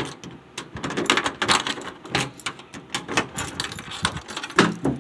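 A keyring jangling and metal clicking as a key is tried and turned in a car's trunk lock, with a louder knock just before the end.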